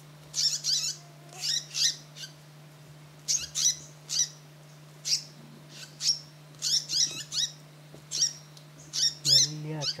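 Small bird calling in sharp, high-pitched chirps, short clusters of two or three about once a second, over a faint steady low hum.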